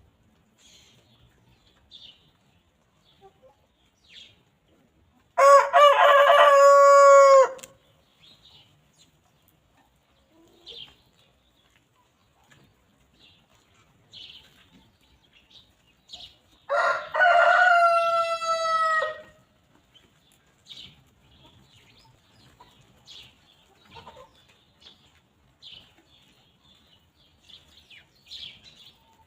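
A rooster crowing twice, each crow about two seconds long and about eleven seconds apart, with the second crow pitched higher than the first. Faint scattered hen clucks come in between.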